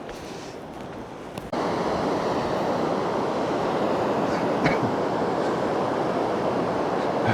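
Steady rush of falling water that cuts in suddenly about a second and a half in, after a quieter stretch.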